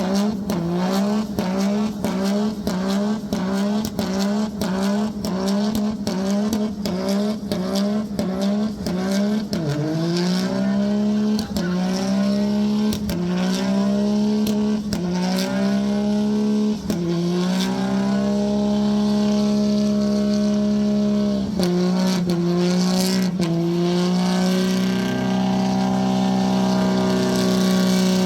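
A vehicle engine revved hard again and again, its pitch sweeping up with each burst of throttle. The bursts come quickly at first, then stretch out, and near the end the engine is held at high, nearly steady revs.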